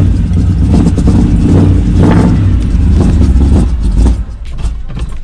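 Big-block V8 in a 1984 Chevrolet K5 Blazer running hard right after a cold start, a loud, dense rumble. About four seconds in the level drops sharply.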